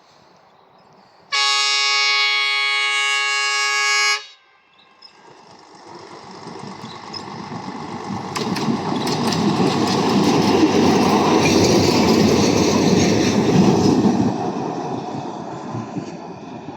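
The Buscarril ADM 255 railbus sounds one long horn blast of about three seconds. It then passes over the crossing: its running noise swells, loudest in the middle, with clicking wheels over the rail joints, and then fades away.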